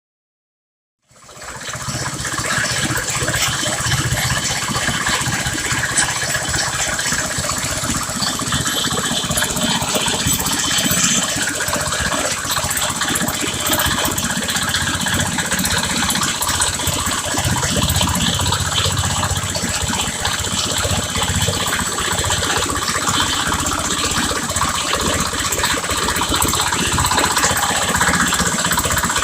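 Engine-driven chain-type water-well drilling rig running steadily, the engine's hum mixed with the rattle of its chain drive. It comes in about a second in.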